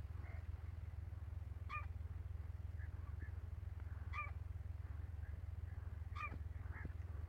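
A bird or fowl calls three times, about two seconds apart, each call short and harsh. Under it runs a steady low rumble.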